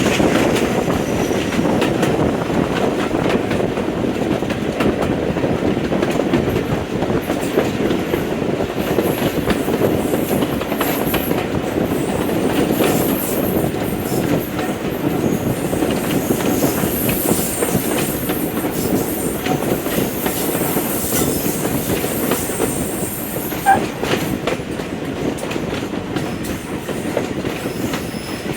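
A train running along jointed track: a steady rumble with quick clicks of the wheels over the rail joints, and one louder knock near the end.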